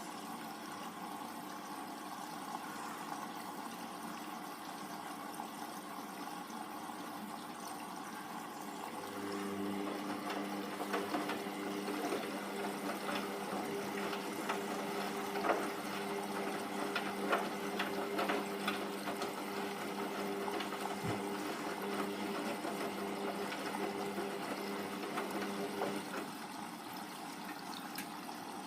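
Hoover Vision Tech VT 914 D22X washing machine mid-wash on a 40°C cycle: about nine seconds in, its motor starts with a steady hum and turns the drum for roughly seventeen seconds, with water and laundry sloshing and clicking inside, then stops, leaving a soft watery background.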